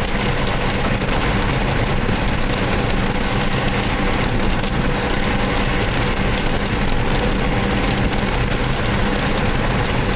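Steady road and engine noise of a moving car heard from inside the cabin, with a constant hiss over it.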